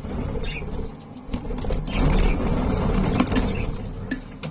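Budgerigars giving a few short, high chirps over a steady low rumble.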